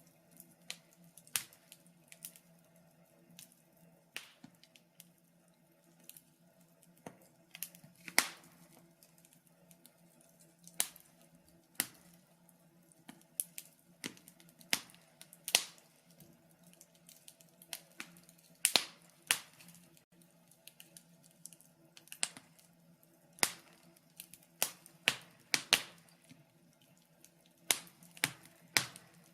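Wood fire in a fireplace crackling: sharp, irregular pops, some in quick pairs, over a faint steady low hum.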